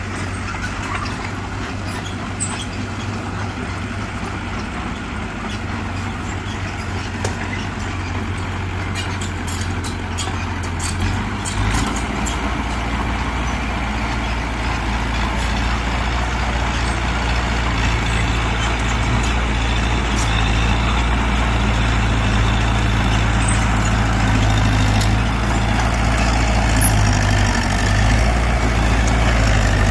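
Heavy diesel earthmoving machinery running steadily, growing deeper and louder from about twelve seconds in, with scattered light clicks along the way.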